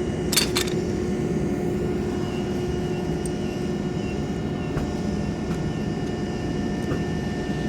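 Steady airport ramp noise from running aircraft engines: a constant low hum with several high, steady whining tones. Two brief clicks come about half a second in.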